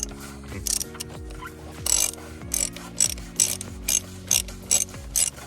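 Hand socket ratchet clicking in short bursts, roughly two a second, as a part is worked loose or tightened on the engine during an oil change.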